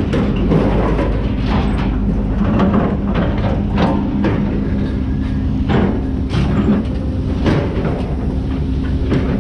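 Vehicle driving with a steady low road rumble and a held engine hum, and frequent rattles and knocks, as from a loaded truck bed over the road.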